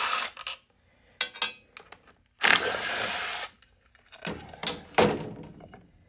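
Work on a small horizontal motorcycle engine: a power driver runs in two bursts of about a second each, with metal clicks and clinks of screws and parts being handled between them.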